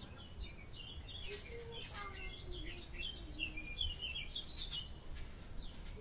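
Small birds chirping and singing, many short overlapping calls, over a steady low rumble.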